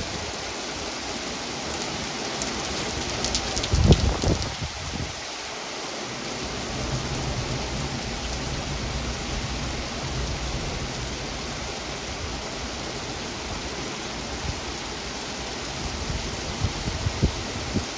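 Heavy rain falling steadily during a thunderstorm. About four seconds in there is a brief louder low thump with some crackling, and a few smaller knocks come near the end.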